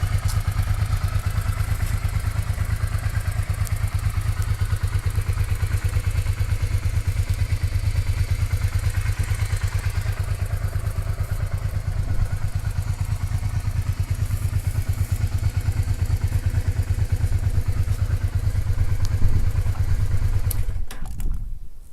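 Honda Bros Product 1 motorcycle's V-twin engine idling steadily with an even, rapid pulse, then switched off near the end, the sound dying away.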